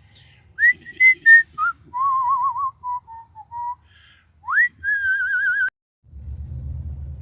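A person whistling a short tune: a few clear notes, a lower wavering phrase, then a rising note held with a wobble that breaks off suddenly. A low rumble starts near the end.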